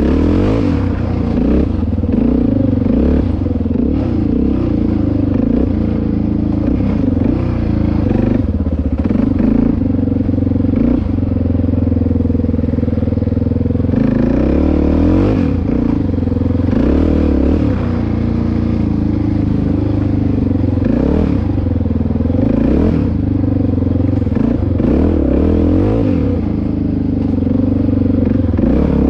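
Dirt bike engine running while riding, its pitch rising and falling repeatedly with the throttle.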